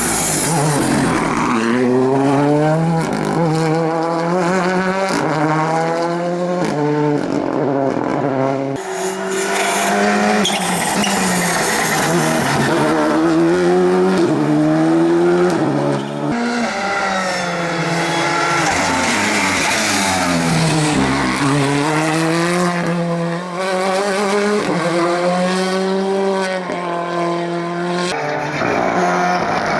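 Rally cars' engines revving hard through the gears, the pitch climbing under acceleration and dropping at each shift or lift-off, many times over.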